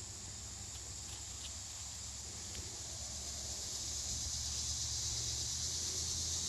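Steady high-pitched drone of an insect chorus in the forest, growing gradually louder, with a few faint ticks of twigs or footsteps.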